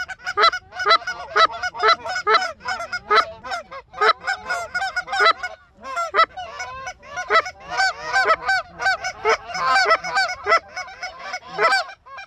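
Loud, rapid goose honks and clucks, many overlapping and several a second, with a short lull about halfway through.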